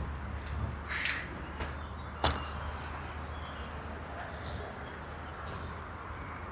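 Park ambience: a crow cawing, with scattered footstep crunches and one sharp click a little over two seconds in, over a steady low hum of the city.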